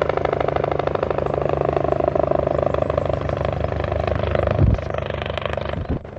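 Helicopter close by, its rotor beating rapidly and evenly over a steady engine whine, with a brief low thump about two-thirds in.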